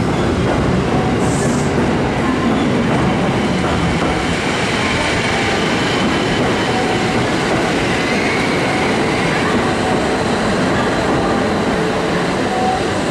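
Kintetsu 1620-series electric train moving along the platform, a steady loud rumble of wheels and running gear with a faint whine rising and falling about halfway through.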